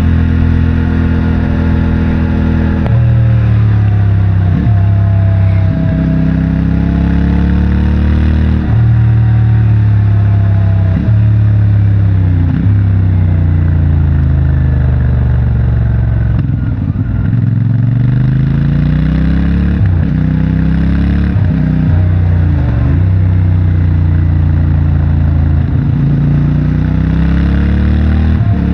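CFMOTO 450MT's parallel-twin engine through its stock exhaust, ridden hard on twisty roads: revs climb and drop over and over, with quick breaks in the note at a dozen or so gear changes.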